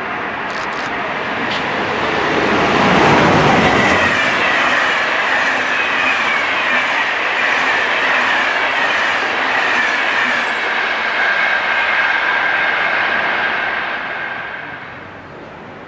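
SNCF Corail passenger train passing close by: the rush of the train builds to its loudest about three seconds in, then a steady high-pitched metallic squeal carries on as the coaches go past. The sound fades away near the end.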